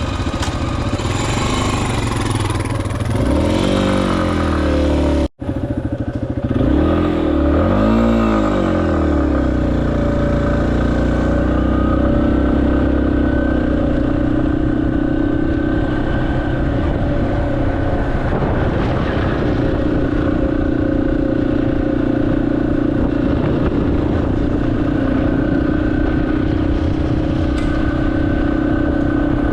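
Yamaha XT250's single-cylinder engine pulling away, its pitch rising and falling twice as it goes up through the gears, with the sound cutting out for an instant about five seconds in. It then settles into a steady run at cruising speed.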